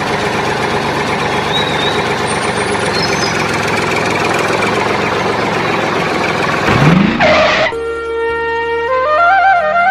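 A tractor engine running steadily for about seven seconds, then a short rising sweep. Flute music starts about eight seconds in.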